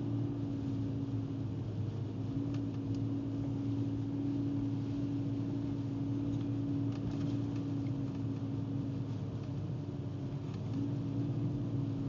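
Steady drone of a BMW E46 325xi wagon's 2.5-litre straight-six engine and its tyres, heard from inside the cabin while driving. A low engine hum holds steady with a higher tone that fades and returns, and a few faint ticks come twice.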